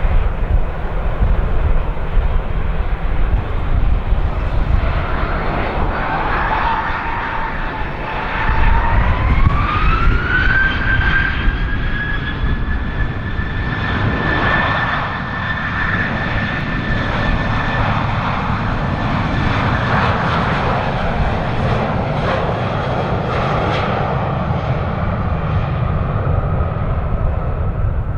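Boeing 737-800's CFM56 turbofan engines spooling up to takeoff thrust. The fan whine rises sharply about a third of the way in, then holds steady over a low rumble.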